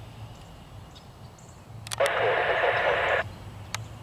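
Air traffic control radio on an aviation scanner: about halfway through, a transmission of about a second that is mostly static with garbled voice, opening with a click and cutting off abruptly.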